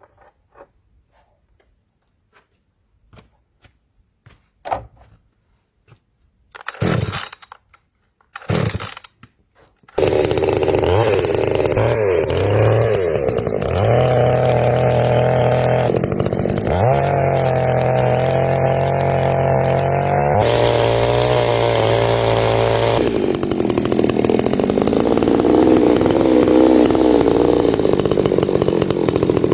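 Chainsaw: after a few faint knocks come two short bursts, then the engine catches about ten seconds in and runs loudly to the end, its revs rising and falling.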